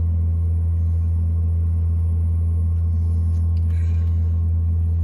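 Navien NPE-240A tankless water heater firing, its combustion blower and burner giving a steady low hum as it heats water. It is running normally again now that its clogged air-intake screen, the cause of an E110 air-pressure fault, has been cleaned.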